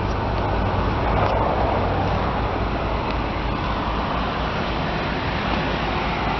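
2002 Nissan Pathfinder's 3.5-litre V6 idling steadily, under a rushing noise that swells in the first couple of seconds and then settles.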